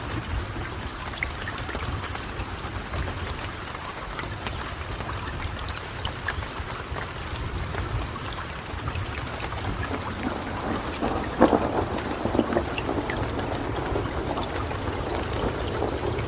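Steady rain falling, with a low rumble of thunder underneath. About eleven seconds in a sudden thunderclap breaks out and rolls on for a couple of seconds.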